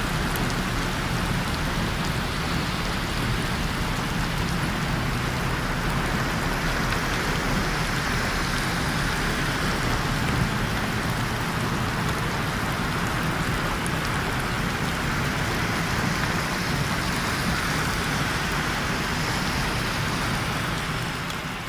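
Steady heavy rain falling and splashing on surfaces, an even, unbroken hiss.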